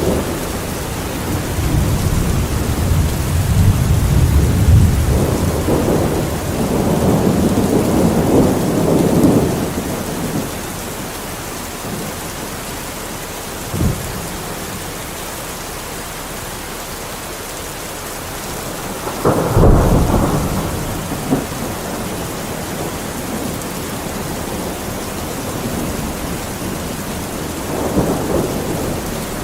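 Steady heavy rain with thunder. A long low rumble rolls through the first ten seconds or so, then come a short crack about a third of the way in, a louder clap a little past the middle, and a fainter rumble near the end.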